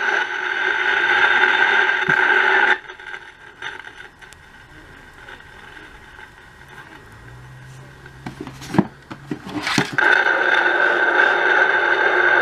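Snake Mountain toy microphone's battery-powered amplifier and speaker giving a steady electronic hum, switched on but with nothing coming through the mic. It cuts out about three seconds in, a few clicks and knocks follow, and the hum comes back on near the end.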